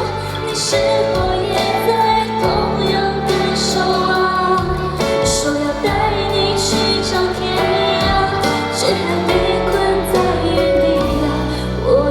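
A woman singing a Mandarin pop song live over a full instrumental backing track.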